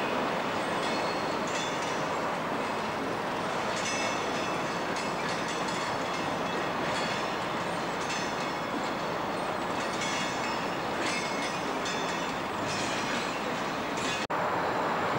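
Class 37-hauled freight train rolling slowly past, with a steady rumble and wagon wheels squealing in short bursts every second or two. The sound drops out for an instant near the end.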